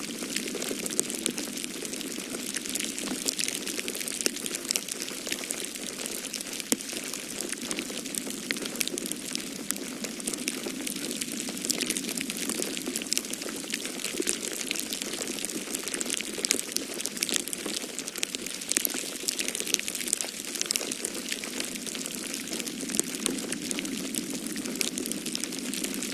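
Wood fire crackling in a fireplace: a dense, steady run of small sharp pops and snaps over a soft hiss, with the low rush of snowstorm wind behind it.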